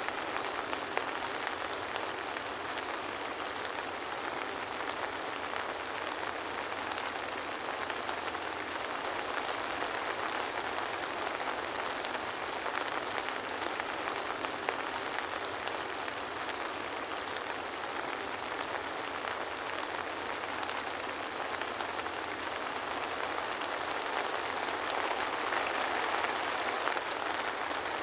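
Steady soft rain with no thunder: an even hiss of many small drop ticks, swelling slightly near the end.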